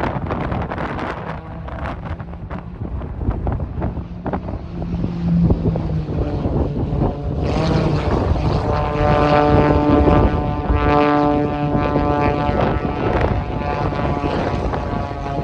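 Aerobatic propeller airplane's engine and propeller running at high power as it flies its display. About halfway through, a steady higher-pitched propeller drone comes in and holds to the end. Wind buffets the microphone throughout.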